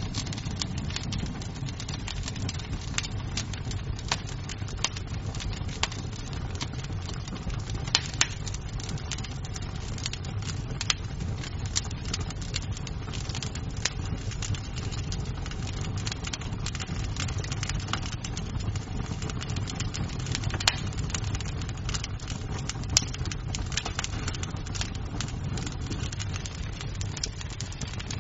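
Wood fire crackling in a fireplace: a steady low rumble of the flames with frequent sharp pops and snaps of burning wood, a few of them louder.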